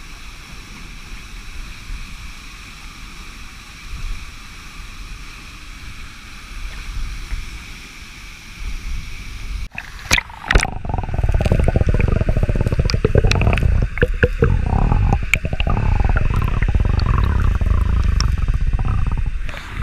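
Waterfall water rushing. About halfway through it becomes much louder and closer, a deep rushing noise with splashes and sharp knocks.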